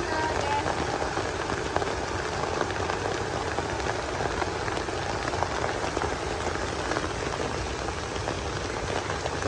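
Rain falling steadily: a constant hiss with many small drop hits.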